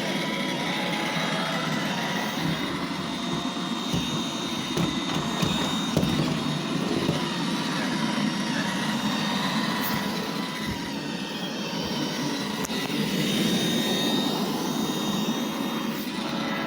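iRobot Roomba 877 robot vacuum running: a steady whir from its vacuum motor and brushes with a thin high whine, and a few light knocks along the way.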